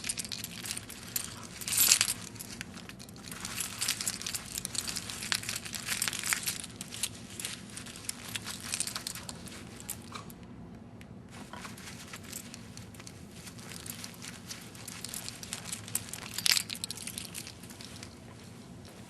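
Rustling, crinkling and small clicks of objects being handled, with a louder rustle about two seconds in and another near the end.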